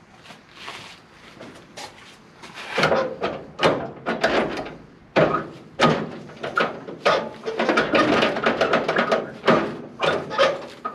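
Irregular clunks, knocks and scrapes of metal parts, starting about three seconds in and going on in quick, uneven strikes: an engine being shifted and worked onto the transmission on a floor jack.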